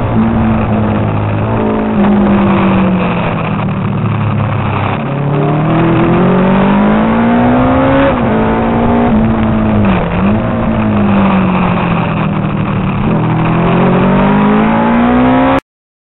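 Engine of a Honda RC181 replica racing motorcycle, heard from an onboard camera at speed. The engine note climbs under acceleration and drops back several times, then cuts off suddenly near the end.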